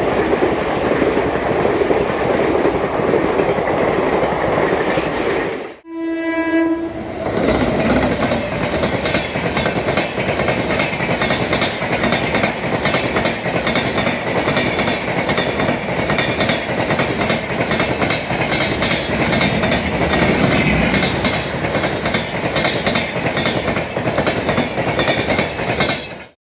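Express train passing at speed, its wheels clattering over the rail joints. About six seconds in the sound drops out briefly and a locomotive horn sounds for about a second. A train then runs past again until the sound cuts off abruptly near the end.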